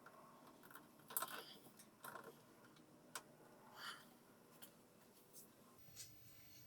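Near silence broken by a few faint, scattered clicks and short scraping rustles, the loudest a little over a second in.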